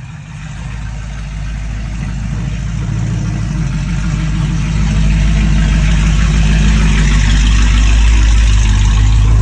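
A vehicle engine running steadily at idle, growing louder over the first five seconds and then holding steady and loud.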